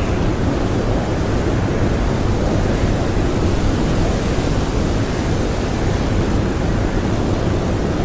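Strong blizzard wind blowing steadily, a dense, unbroken noise heaviest in the low end, with no gusts or breaks.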